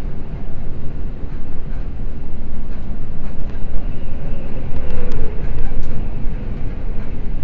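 Running noise of a Seibu Red Arrow limited express train at speed, heard from inside the carriage: a steady, loud rumble of wheels on rail. About five seconds in, a few sharp clicks and a faint tone that rises and falls are heard over it.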